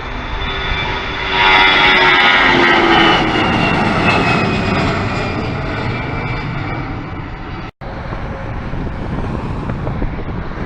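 Airliner's engines passing close by: the noise swells suddenly about a second in, and the engine tones slide down in pitch as the plane goes past, easing off afterwards. The sound cuts out for an instant about three-quarters of the way through.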